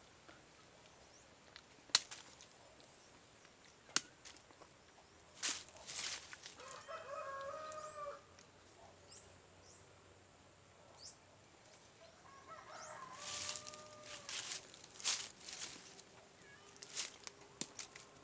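A rooster crowing twice, each crow lasting under two seconds, among sharp snaps and rustling and faint high bird chirps.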